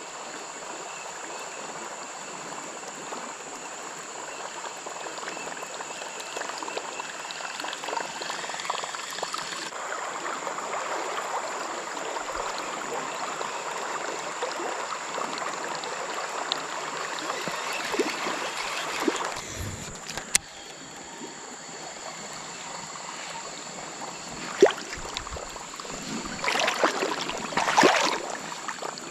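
Creek water running over a riffle, a steady rushing that swells in the middle and eases off about two-thirds of the way in. A few louder splashes come near the end.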